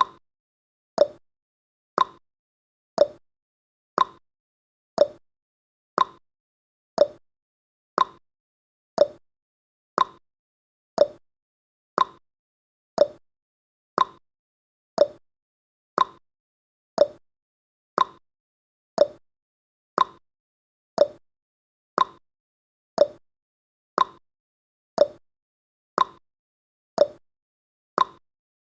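Clock-tick sound effect of a countdown timer, one sharp tick each second with near silence between.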